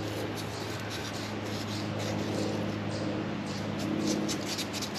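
Light rubbing and scratching as a distributor rotor arm is cleaned by hand, over a steady low hum.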